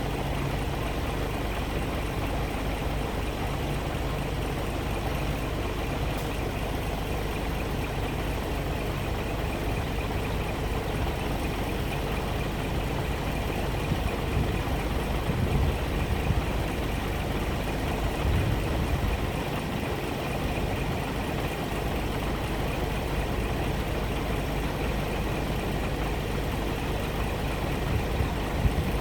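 Scania R 420 truck's diesel engine idling steadily, with a few heavier low rumbles about halfway through.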